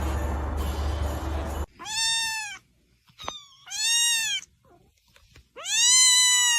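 A cat meowing three times: drawn-out calls that rise and fall in pitch, the last one the longest. Before them, a steady rushing noise cuts off suddenly about a second and a half in.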